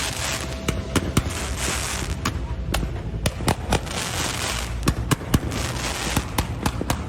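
Fireworks display going off: many sharp, irregular bangs in quick succession over a steady crackling hiss.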